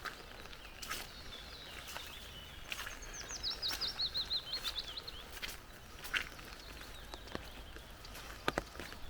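A songbird sings a fast trill of quick falling notes about three seconds in, lasting around two seconds, over a steady wash of forest background noise. Short sharp crunches and ticks, likely footsteps on a wet forest path, sound every second or so, the loudest pair near the end.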